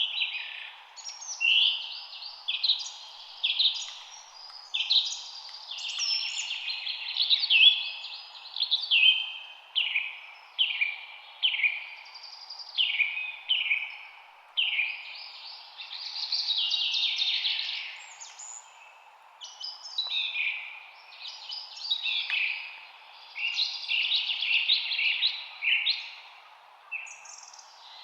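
Birdsong: songbirds chirping and singing in short, quick phrases, one after another with hardly a pause, over a faint steady background hiss.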